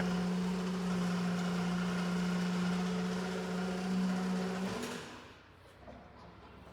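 Electric motor of an Atlet warehouse truck humming steadily at one constant low pitch, then cutting off about five seconds in.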